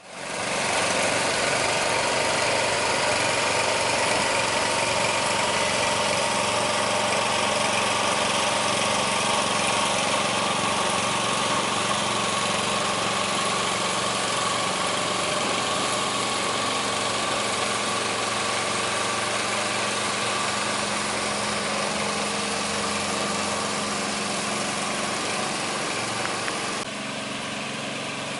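Road construction machinery engine running steadily, slowly easing in level, with a small drop near the end.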